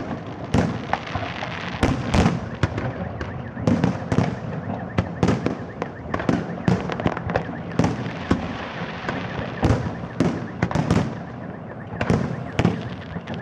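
Fireworks display: a continuous barrage of shell bursts, sharp bangs coming two or three times a second with no let-up.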